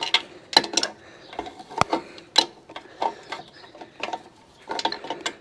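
Adjustable spanner working a nut on a motorcycle's front end: a run of irregular metal clicks and clinks as the spanner is fitted, turned and repositioned on the nut.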